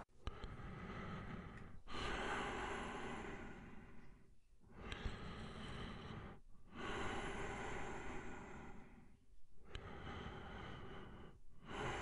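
A person breathing slowly and deeply: long breaths in and out, each lasting about two seconds, with short pauses between them.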